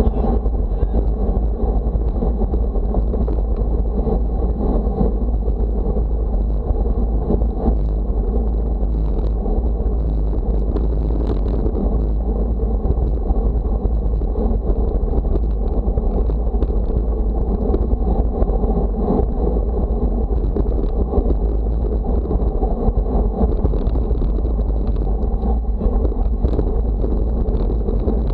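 Steady wind buffeting the microphone on a windy day, a heavy low rumble that does not let up.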